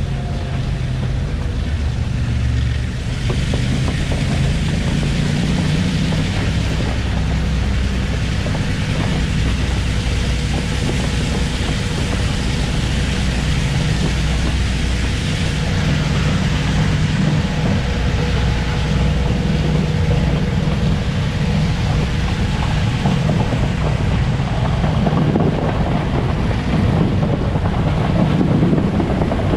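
Express train running at speed, heard from on board: a steady rumble of the wheels on the track with wind buffeting the microphone.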